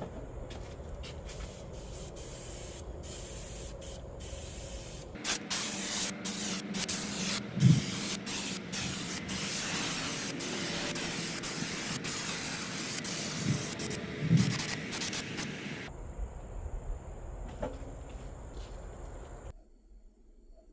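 Paint sprayed onto a metal plate in short hissing bursts, then in a longer, nearly continuous pass broken by brief gaps, stopping about sixteen seconds in.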